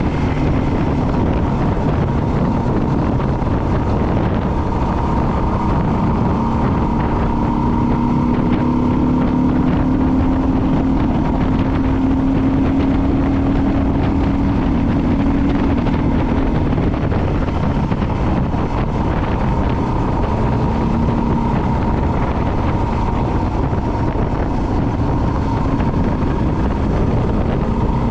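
Suzuki DR650's single-cylinder four-stroke engine running steadily while the bike is ridden, with wind rushing over the microphone. The engine note climbs gently from about six seconds in, then drops back about ten seconds later.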